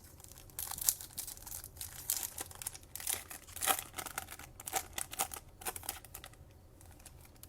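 Trading-card pack wrapper crinkling and tearing as a Topps Chrome pack is opened, with irregular crackles for several seconds.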